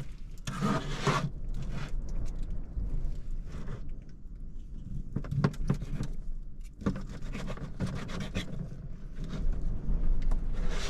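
Irregular scrapes and rustles of food being cut and handled: a knife working raw chicken on a cutting board, with packaging moved about. Under them runs a steady low rumble of wind.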